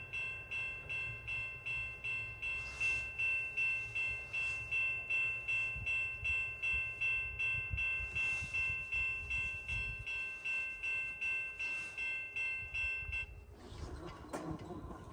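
Railway level-crossing warning bell ringing steadily, about two and a half strikes a second, over a low rumble; it cuts off suddenly about 13 seconds in.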